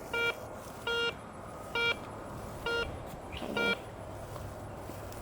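Garrett ACE 250 metal detector beeping as its coil sweeps back and forth over a buried target, giving the tone it gives for a nickel-range target. Five short identical beeps, about one every 0.8 seconds, stopping a little after halfway.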